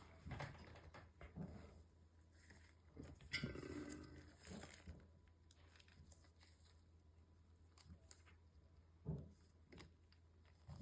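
Faint handling sounds from work inside an opened MacBook Pro: light taps and clicks, with a brief rustle or scrape about three to five seconds in and a sharper tap near the end, over a steady low hum.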